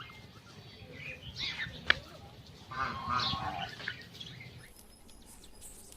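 A duck quacking in two short calls, with a sharp click between them.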